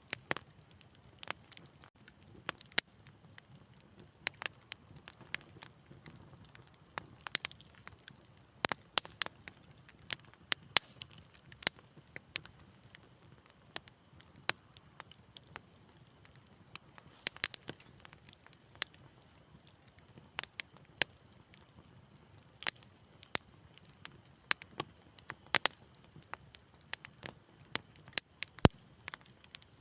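Wood fire crackling in a fireplace: sharp, irregular pops and snaps, several a second at times, over a faint low hiss.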